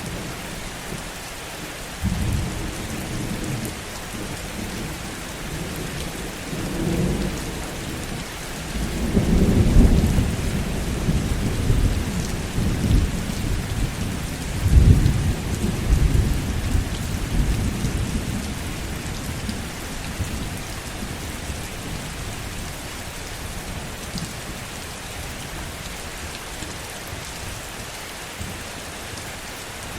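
Heavy rain falling steadily, with rolls of low thunder rumbling in about two seconds in, swelling twice and fading away by two-thirds of the way through.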